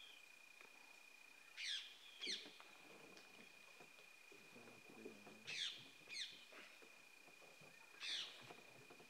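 A bird calling in sharp, downward-sweeping notes: two pairs, then a single note near the end, over a steady high whine.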